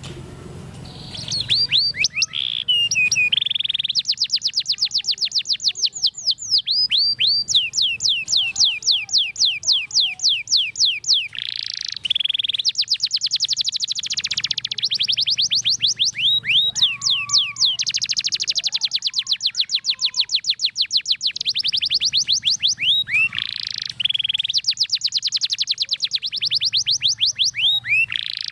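Domestic canary singing a long, fast rolling song: trills of rapidly repeated high sweeping notes, phrase after phrase, with barely a pause.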